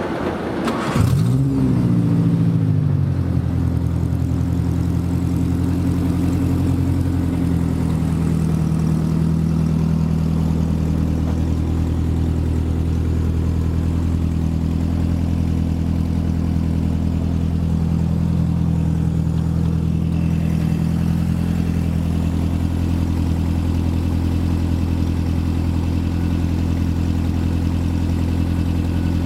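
Water-cooled Subaru engine in a 1972 VW Beetle starting about a second in, its revs flaring up briefly and then settling into a steady idle.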